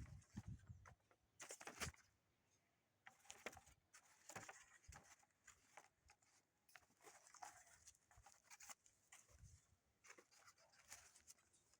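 Faint, irregular scratching and rustling, with a few light taps, from hands at close work.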